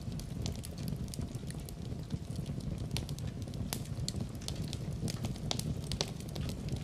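Wood fire burning in a fireplace: a steady low rumble from the flames with frequent irregular crackles and sharp pops, a few of them louder.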